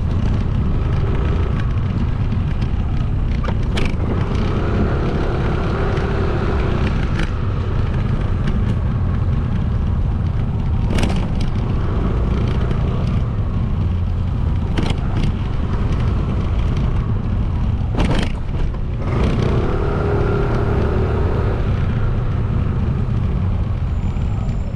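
Motorcycle riding through city traffic: a steady low rumble of wind on the microphone over the engine and surrounding vehicles, with a few sharp knocks along the way.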